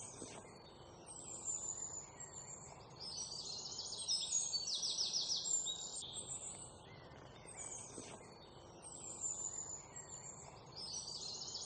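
Background ambience of many birds chirping and calling, with fast pulsed trills twice; the same stretch of calls repeats about six seconds in, like a looped track.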